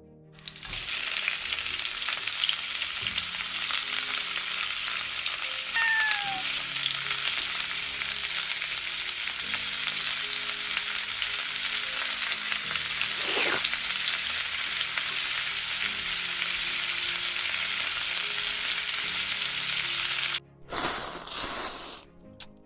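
Food sizzling in a hot frying pan, a steady loud hiss that cuts off suddenly near the end. A brief falling chirp sounds about six seconds in.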